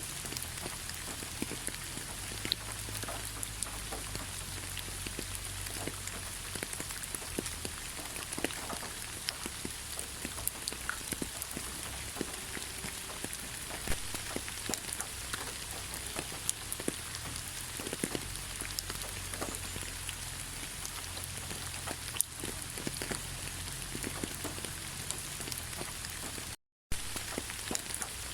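Steady rain falling, with many scattered drop ticks on a surface. The sound cuts out completely for a fraction of a second near the end.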